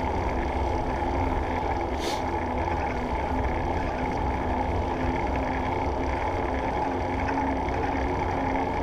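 Steady riding noise from a Surly Krampus on the move: wind on the handlebar-mounted camera's microphone mixed with the hum of the bike's tires rolling. There is a single sharp click about two seconds in.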